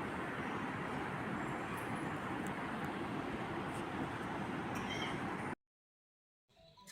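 Heavy rain falling, a steady rushing hiss that cuts off abruptly about five and a half seconds in; after a second of silence, soft music begins near the end.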